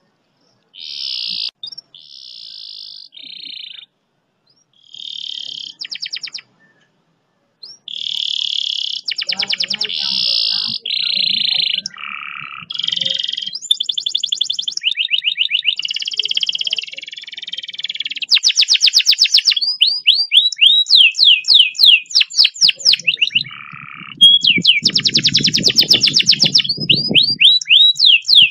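Canary singing a training song. Short varied phrases with brief gaps come first, then long, fast rolls of rapidly repeated notes through the second half.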